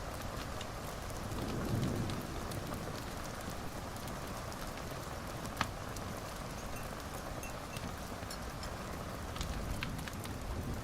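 Wood fire crackling in a fireplace: a steady hiss with scattered small pops, one sharper pop about halfway through.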